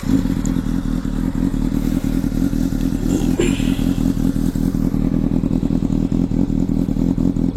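Honda CBR600RR inline-four running steadily at low revs, possibly idling, through a LeoVince aftermarket exhaust, with an even, unchanging note.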